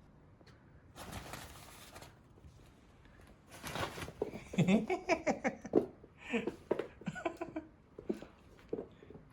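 A man laughing in a run of short, quick bursts, after a brief rustle about a second in.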